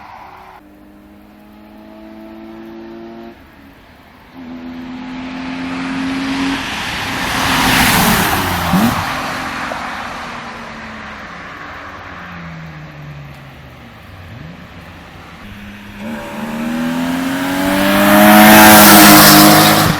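1992 BMW E36 325is's M50B25 inline-six, with an open intake and catless, straight-piped exhaust, accelerating hard: its pitch climbs through the gears, it passes close and loud about eight seconds in, falls in pitch as it lifts off, then climbs again and passes even louder near the end.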